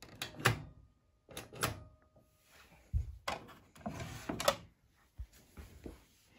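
Handling noises: a run of sharp clicks and knocks with rubbing between them, and two short dull thumps.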